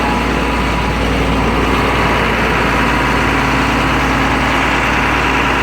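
GMC C6500 bucket truck's engine running at a steady raised speed, brought up by the truck's throttle control.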